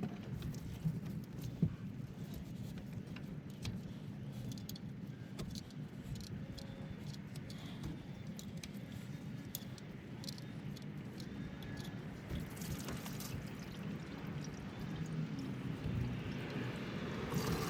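Engine coolant trickling and dripping from a disconnected hose, with scattered light metallic clicks of parts being handled. The trickle grows louder near the end.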